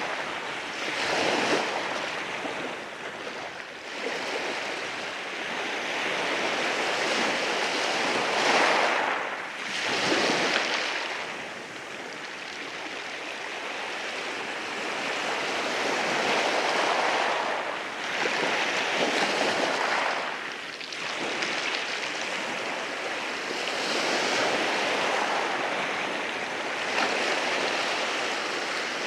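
Waves breaking and washing in over rocks: a continuous surf wash that swells and eases every few seconds.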